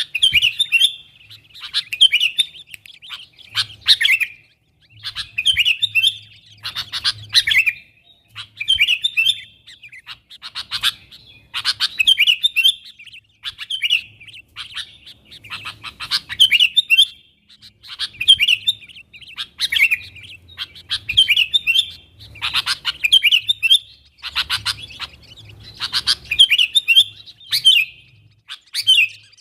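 Sooty-headed bulbul (kutilang) calling over and over in lively, chattering phrases of sharp notes, about one phrase a second.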